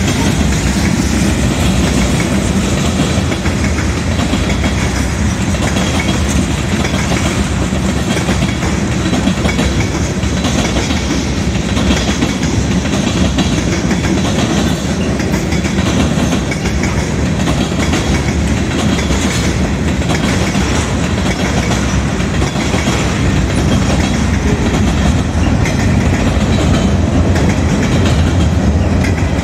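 CSX freight train cars rolling past, a loud steady rumble with the wheels clacking over the rail joints.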